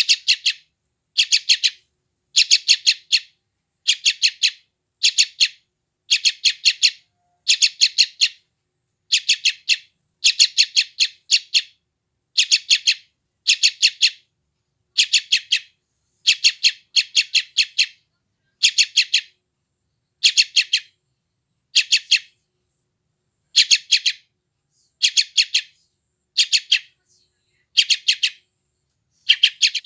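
Yellow-vented bulbul chick (trucukan) begging with a hungry call: short bursts of rapid high chirps, repeated about once a second without letup.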